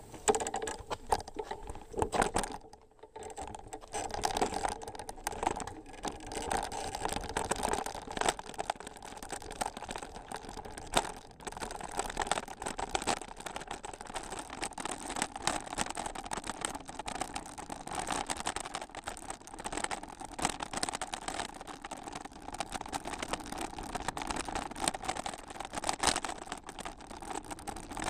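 Bicycle rolling along a dirt and gravel trail: steady crunching of the tyres with many small clicks and rattles, briefly dropping away about three seconds in.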